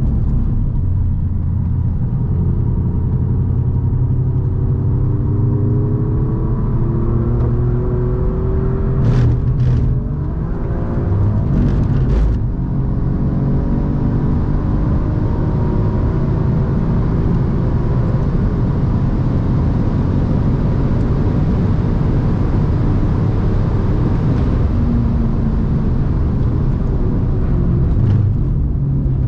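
Alfa Romeo Giulia Quadrifoglio's twin-turbo V6 heard from inside the cabin at full track pace, its pitch rising and falling again and again, over a heavy rumble of road and tyre noise. A few brief, sharp noises come about nine to twelve seconds in.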